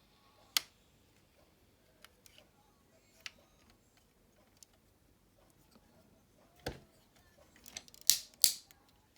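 Hard plastic parts of a transforming robot action figure clicking and tapping as it is handled: scattered single clicks, a duller knock about two-thirds of the way through, and a cluster of louder clicks near the end.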